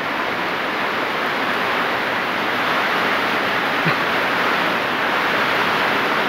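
Steady heavy rain falling, a dense even hiss, with one small tap about four seconds in.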